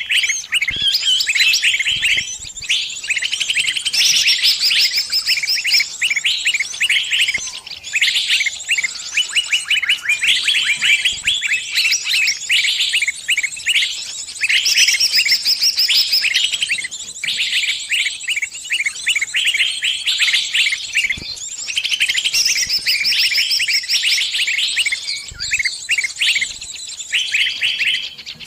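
A small bird's fast, high-pitched chirping in long runs of rapid chirps broken by short pauses: the distress calls of a trapped bird calling to others of its kind.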